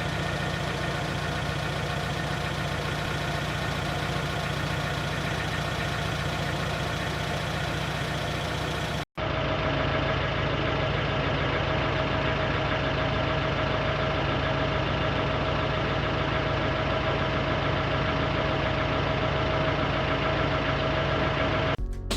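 An engine running steadily at idle. About nine seconds in it cuts off abruptly, and another steady engine sound follows with a clear, steady tone running through it.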